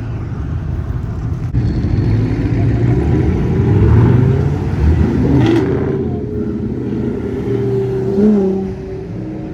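Engine of a classic car driving past, rising in pitch and loudness to a peak about four seconds in, then easing off.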